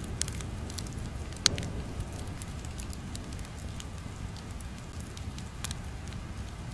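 Crackling ambience: irregular pops and snaps over a low steady rumble, with one sharper crack about a second and a half in.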